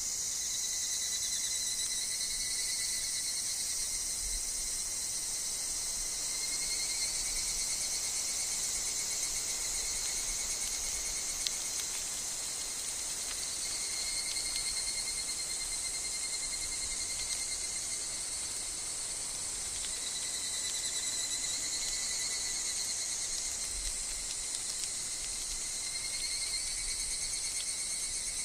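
Steady, high-pitched chorus of singing insects, a continuous shrill trill with a fainter lower tone beneath it, swelling and easing slightly, with a few faint ticks.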